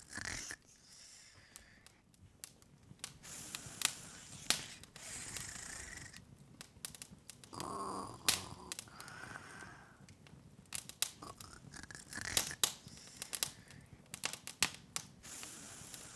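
Open wood fire crackling: irregular sharp pops and snaps over a soft hiss.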